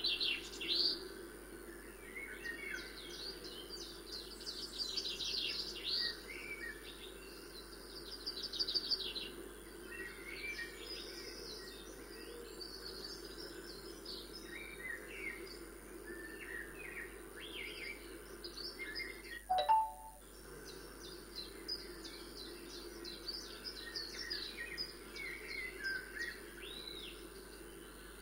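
Birds chirping and trilling throughout, many short calls and quick trills, over a faint steady hum. A single short knock about two-thirds of the way through is the loudest sound.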